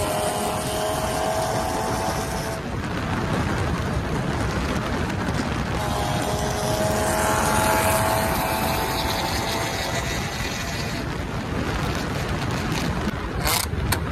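Car engines pulling under hard acceleration at highway speed, mixed with heavy wind and road rush. The engine note climbs slowly, drops at a gear change about two and a half seconds in, and climbs again from about six seconds. A few sharp crackles come near the end.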